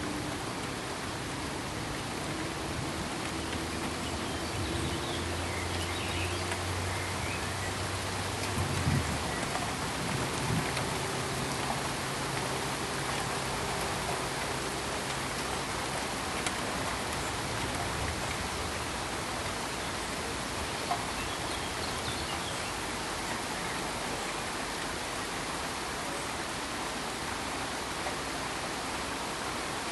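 Steady pink noise: an even, unbroken hiss like heavy rain. A faint low hum sits under it for a while, and there are a couple of soft knocks about nine and ten seconds in.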